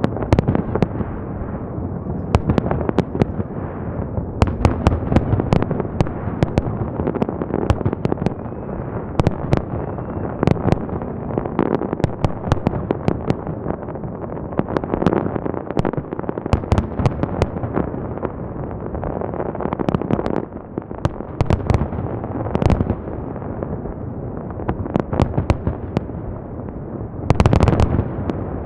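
Festive fireworks salute going off in a dense, continuous barrage of bangs and crackles over a steady rumble, with a louder cluster of bangs near the end.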